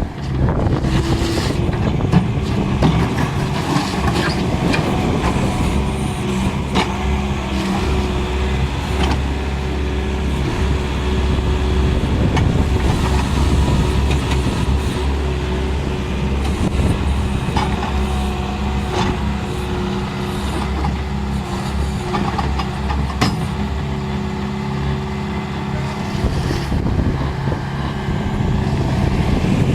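Bobcat skid-steer loader's diesel engine running steadily, with a few sharp knocks and clanks here and there.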